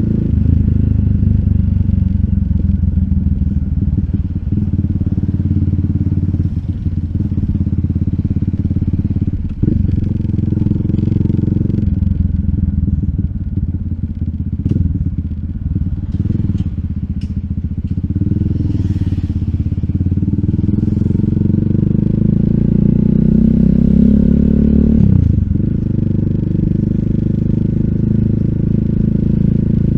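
RUSI Classic 250Fi single-cylinder engine running through an aftermarket full exhaust with a slip-on bullet pipe and dB killer, under way. The engine note changes step-wise around ten and twelve seconds in, climbs steadily under acceleration, then drops sharply at a gear change about 25 seconds in.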